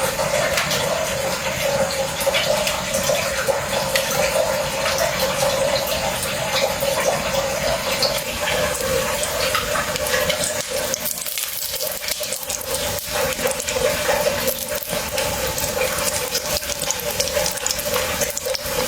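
Steady rushing of running water, with many small crackles and clicks over it.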